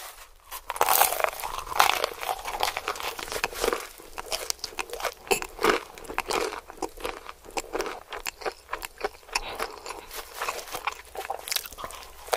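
Close-miked crunching of a crispy fried chicken sandwich being bitten into and chewed, with quick crackly crunches throughout. The loudest bites come about one to two seconds in.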